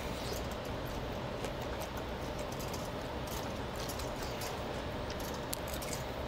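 Chewing a mouthful of guobaorou (crispy fried sweet-and-sour pork), with scattered faint clicks over a steady background hum.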